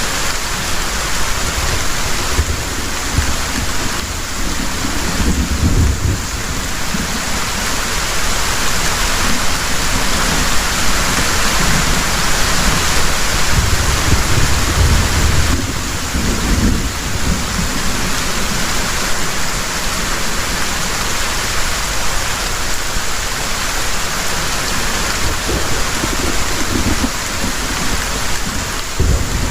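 Heavy rain pouring steadily, with low thunder rumbles swelling up several times under it.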